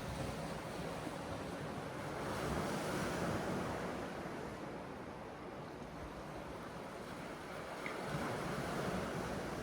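Sea waves surging and washing ashore, a steady rush that swells louder twice, a few seconds in and again near the end.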